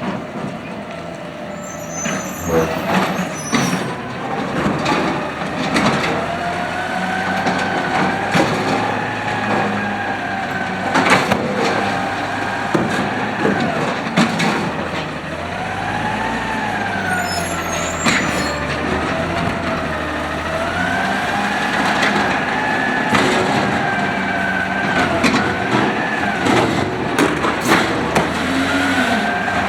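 Automated side loader garbage truck working: the engine revs to drive the hydraulics, giving a whine that rises and falls in pitch, with repeated sharp metallic bangs and clanks from the arm and carts being slammed.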